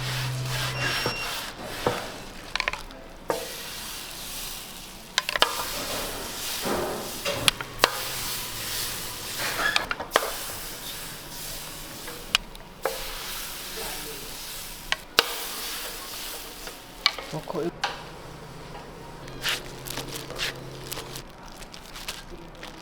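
Food-preparation sounds: a steady sizzling hiss with stirring and many scattered sharp clicks and knocks of utensils.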